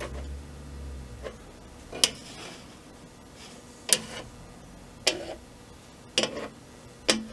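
Five sharp knocks at uneven gaps of one to two seconds, from objects being handled against the table saw and workbench tops.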